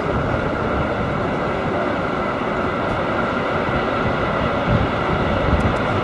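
A freight train running along the far riverbank line, heard over a steady drone on board a river passenger boat.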